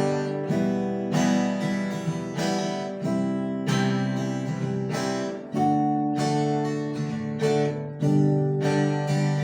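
Acoustic guitar (violão) strumming a chord progression, the chord changing every couple of seconds. Each chord is fretted so that every string rings out clearly.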